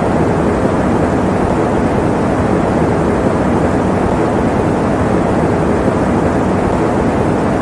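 Electric fan running: a steady, even whooshing noise, heavier in the low and middle range, with no rhythm or change.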